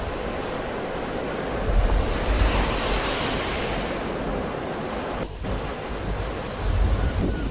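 Sea waves surging and washing in as a steady hiss, with one wave swelling about two to three seconds in. Wind buffets the microphone with low rumbling gusts.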